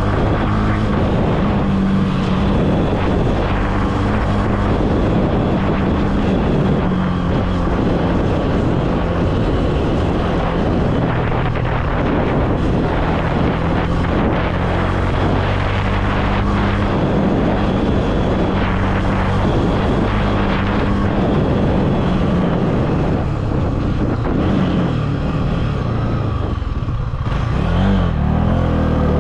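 Honda CB300F's single-cylinder engine running at varying speed: long steady stretches, a few changes in pitch, and a drop followed by rising and falling revs near the end.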